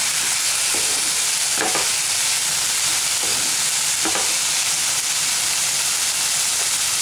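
Chopped banana flower and potato sizzling steadily as they sauté in a pan, with a wooden spatula stirring and scraping through them a couple of times.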